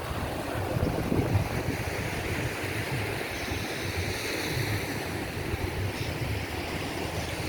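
Sea surf breaking and washing up a beach in a steady wash of noise, with wind buffeting the microphone in irregular low rumbles.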